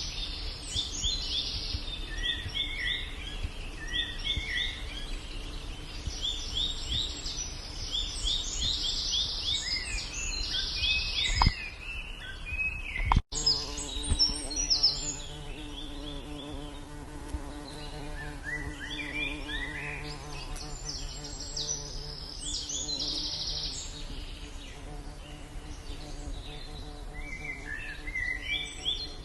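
Birds calling in the trees in repeated bursts of rapid, high chirping notes. About halfway through, after a brief break, a steady low buzz joins for around ten seconds while the chirping goes on.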